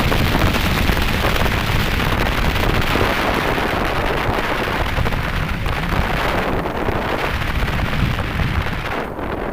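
Wind buffeting the microphone of a moving motorcycle: a dense, steady rush of noise with a heavy low rumble. The high hiss falls away about nine seconds in.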